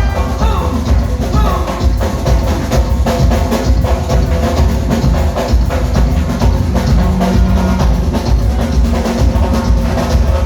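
Carnival music driven by loud drums and percussion over a heavy, steady bass beat.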